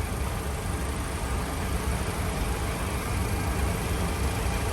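Steady flight-deck noise of an MD-80 airliner in flight on approach: an even rush of airflow over a low rumble.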